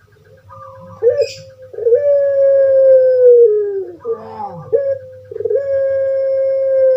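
Puter pelung dove (Barbary dove, Streptopelia risoria) cooing. A short note comes first, then two long drawn-out coos, each held about a second and a half and dropping in pitch at the end.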